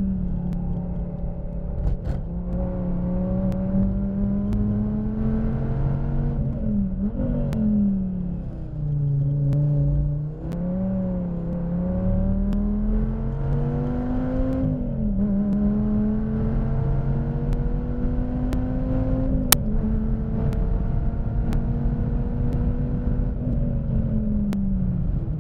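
Dodge Viper ACR's V10 engine heard from inside the car on track, its pitch climbing under throttle and falling away repeatedly, with quick drops and jumps at the gear changes, including downshifts to second for a slow corner. A few sharp clicks stand out over the engine.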